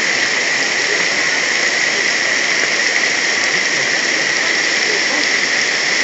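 Torrential downpour of heavy rain, a steady, even hiss that holds without a break.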